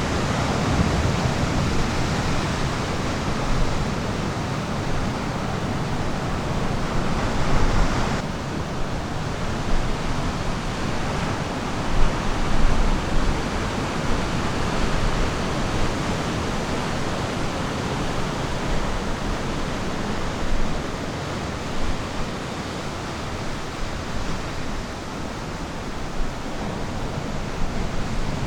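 Ocean surf on a beach: a steady rushing wash of breaking waves. The upper hiss drops off abruptly about eight seconds in.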